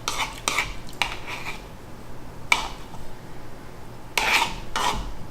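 Eating utensil scraping and tapping against a dish of stir-fried rice noodles in several short bursts, with the longest burst about four seconds in.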